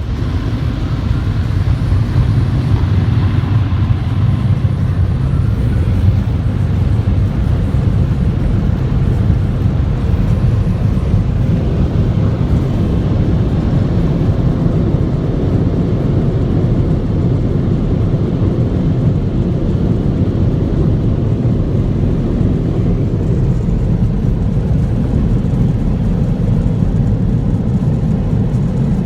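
Touchless automatic car wash machinery running: a steady, loud low rumble.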